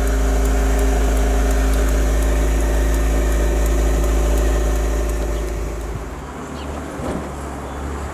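Hand-built Raffo Belva sports car's engine running steadily, then dropping in level and changing about six seconds in.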